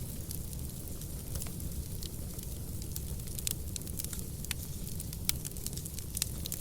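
Wood fire burning in a fireplace, with a steady low rumble and irregular sharp crackles and pops from the logs, a few louder snaps past the middle.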